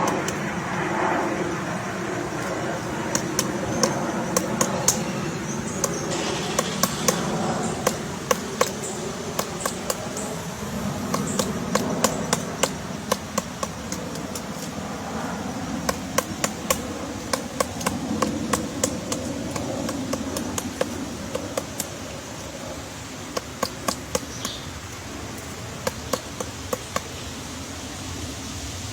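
Woodpecker pecking into wood to dig out a nest hole: sharp irregular taps, often in quick runs of several, with short pauses between.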